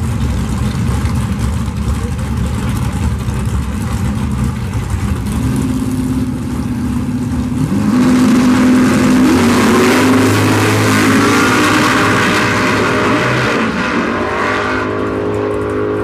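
Drag-racing car engines rumbling at the start line, then revving louder past the middle and pulling away with rising engine pitch as they run down the strip.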